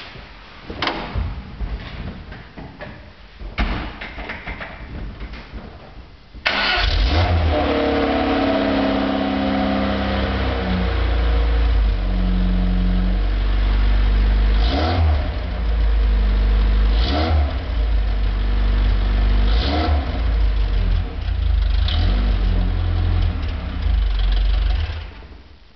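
Lada 2107's 1600 cc four-cylinder engine starting and running with its rear muffler removed, the exhaust loud and open. It catches suddenly about six seconds in, after a few knocks, then idles while the throttle is blipped about five times, every two to three seconds.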